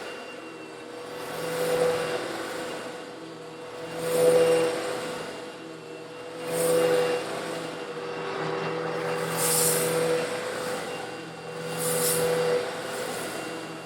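Old Eureka vacuum cleaner running and sucking up coarse stone granules: a steady motor hum with five swells of rushing hiss, about two to three seconds apart.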